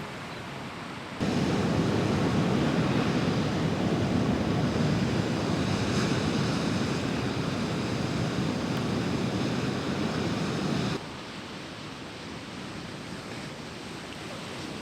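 Ocean surf: a steady wash of breaking waves. It jumps louder and fuller about a second in and drops back to a softer wash near the end.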